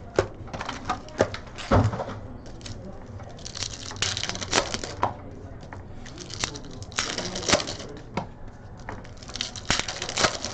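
Trading cards and their plastic packaging being handled, with irregular clicks, snaps and short crinkling rustles.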